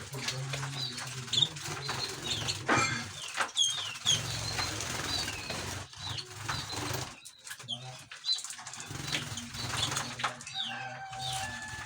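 Small caged songbirds, canaries and goldfinches, chirping and calling in many short high notes, with wings fluttering and a low pulsing sound underneath.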